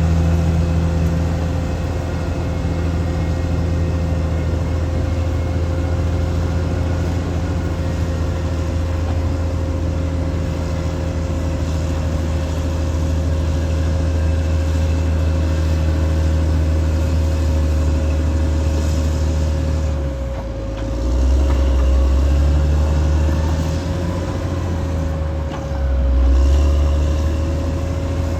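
Caterpillar D6R XL bulldozer's diesel engine running steadily under work, with a constant whine over it. Twice near the end, the engine note drops briefly and then comes back stronger.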